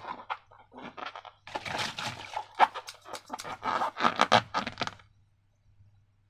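Slime and a rubber balloon being handled: irregular crunchy, crackly squishes and scrapes for about five seconds, then near silence.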